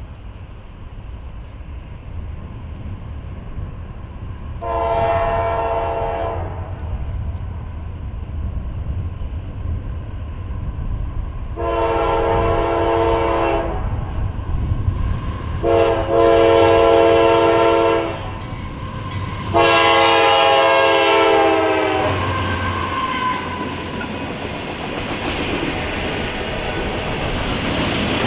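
A GE AC4400CW diesel locomotive leading a freight train sounds its multi-chime horn in four blasts, the last ones longer and louder. Then the train rolls past with engine rumble and wheels clacking over the rail joints.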